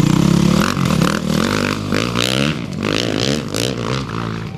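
Off-road racing motorcycle engine revving, its pitch rising and falling several times.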